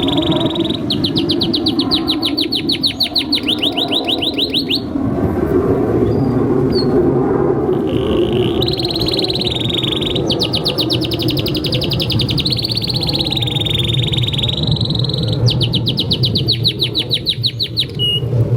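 Canary singing long rolling trills of rapid repeated notes, about ten a second, between held wavering phrases, with a pause of a few seconds in the middle. A steady low rumble runs underneath.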